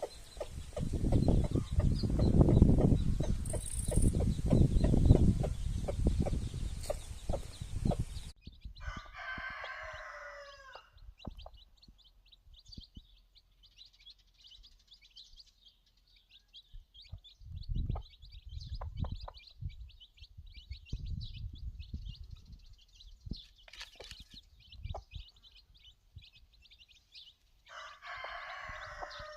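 Young chickens: a cockerel crows twice, about nine seconds in and near the end, each crow lasting a couple of seconds, over continual high-pitched chirping. The first eight seconds are covered by loud low rumbling noise.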